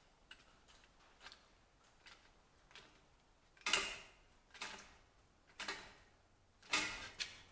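Hand-operated metal shrinker clamping the edge of a steel repair panel: a few faint clicks, then four sharp metallic clunks about a second apart in the second half.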